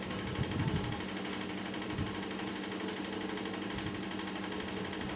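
A steady machine hum with a few low knocks, one near the start and one about two seconds in.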